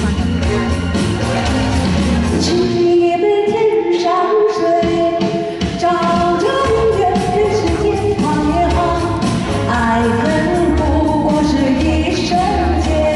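A song sung over band accompaniment. The low backing drops away for a few seconds about three seconds in, leaving the voice nearly alone, then comes back in under the singing.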